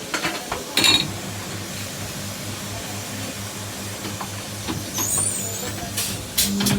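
A workshop machine running with a low, regular throb of about five pulses a second, over a steady noisy hiss, with a sharp clank about a second in.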